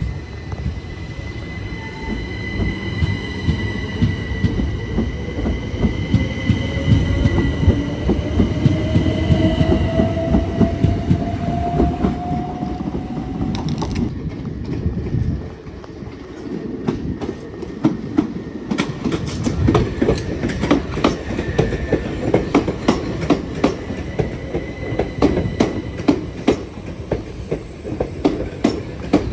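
A train moving through: a whine rising in pitch over steady high tones and a heavy rumble, then about halfway a rapid, regular clatter of wheels over rail joints.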